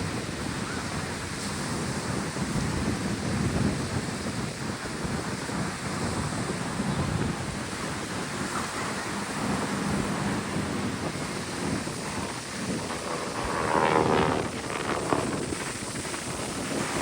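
Wind buffeting the microphone over a steady rush of ocean surf, with a short pitched sound about fourteen seconds in.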